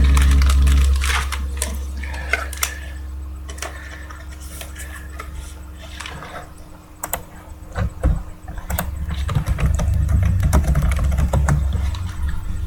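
Typing on a computer keyboard: irregular runs of key clicks over a low steady hum.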